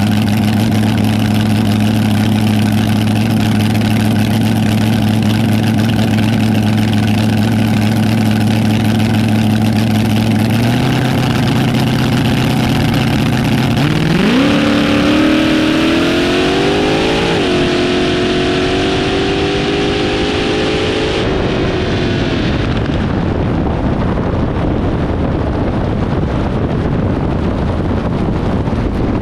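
Front-engine dragster's engine idling steadily, then launching about halfway through. The pitch climbs hard, dips at a gear change to second a few seconds later and climbs again, then the engine note cuts off suddenly when the throttle is lifted, leaving wind noise.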